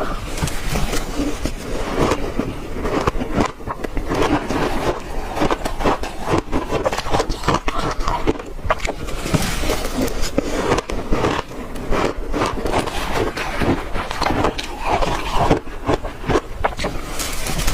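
Ice being chewed close to the microphone: a continuous run of crisp, crackling crunches without pauses.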